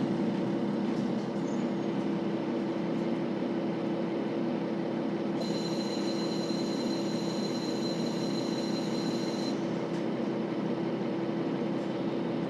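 KiHa 40 series diesel railcar running at a steady speed, heard from inside the car: a continuous drone of the diesel engine and wheels on rail. A thin, high whine joins for about four seconds in the middle, then cuts off.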